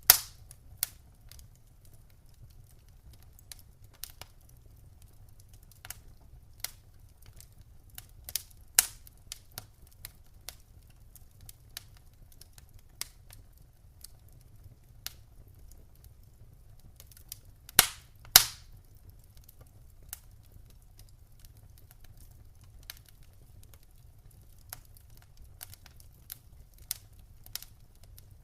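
Wood fire crackling in a fireplace: scattered sharp pops and snaps at irregular intervals, with two loud pops in quick succession a little past the middle, over a faint low rumble of the flames.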